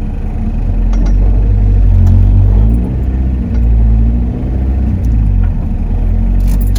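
Turbocharged Toyota 1ZZ-FE four-cylinder engine pulling under load: the revs climb, drop back, then climb and ease off again. Near the end a sharp rattling clatter sets in.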